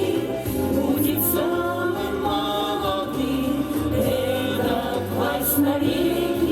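A song performed by a group of voices singing together over instrumental backing with a steady bass line; the notes are held and sustained.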